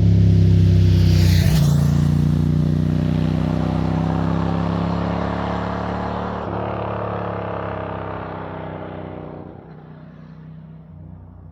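1997 Ducati Monster 900's air-cooled V-twin running loud through an open Roadsitalia titanium exhaust with no dB-killer. The note breaks about one and a half seconds in and again about six and a half seconds in, then fades away over the last few seconds.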